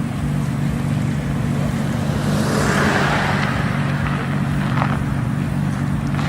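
A car passing by, its noise swelling to a peak about three seconds in and then fading, over a steady low engine rumble.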